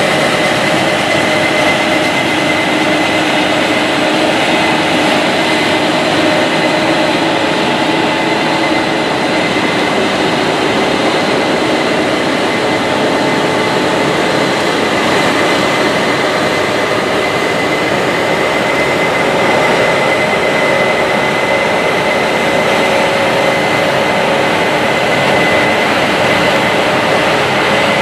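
Large Case IH harvest machinery working under load: a steady, loud drone of diesel engines and threshing machinery, with a steady high whine over it.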